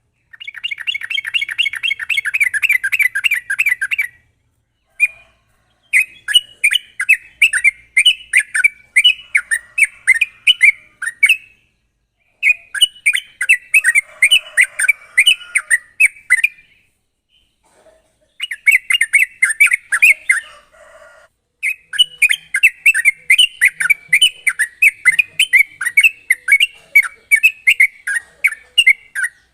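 Yellow-vented bulbul (trucukan) singing rapid runs of repeated notes, known as 'ropel', in phrases of a few seconds separated by short pauses.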